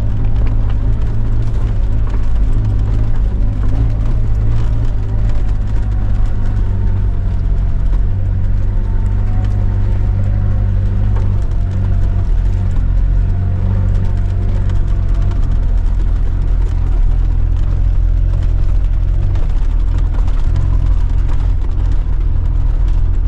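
4x4 truck engine pulling steadily in low gear up a loose off-road climb, a continuous deep rumble heard from inside the cab.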